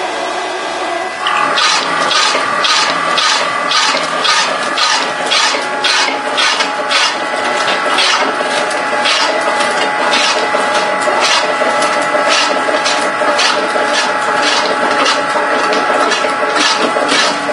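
Nantsune NYL-160S multi-slicer running and slicing salmon: a steady motor hum with a rasping cutting stroke about twice a second, which steps up about a second in.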